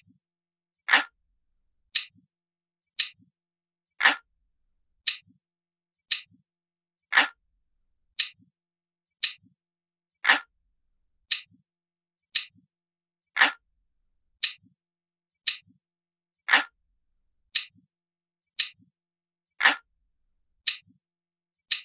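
Glass-like clock ticking sound, one crisp tick about every second, every third tick fuller and lower than the two between.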